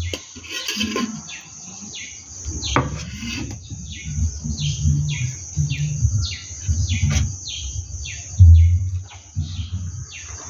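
A bird calling in a run of short descending notes, about two a second, over a steady high insect drone. A few sharp clicks of a metal serving spoon against the cooking pot, and bursts of low rumble, loudest near the end.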